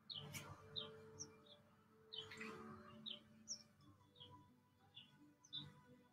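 Faint bird chirping: a string of short, high chirps about twice a second over near-silent room tone.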